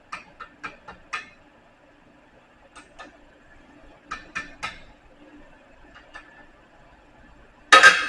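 A series of light, sharp taps in small clusters of two to four, then one much louder knock near the end.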